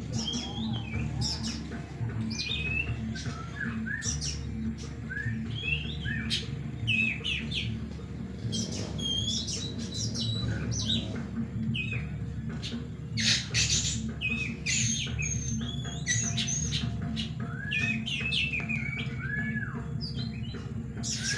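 Several oriental magpie-robins (kacer) singing at once in a songbird contest: many overlapping quick whistles and chirps sliding up and down in pitch, with no pause.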